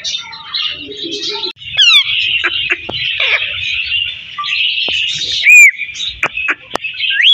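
Parrot chattering and chirping, with short whistled glides and clicks. One loud arched whistle comes about five and a half seconds in.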